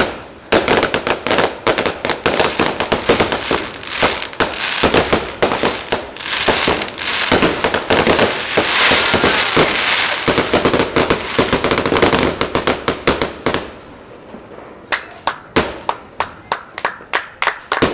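Fireworks going off: a rapid string of sharp bangs and crackling that builds to an almost continuous crackle in the middle. It drops away about three-quarters of the way through, then separate pops come again at a few per second near the end.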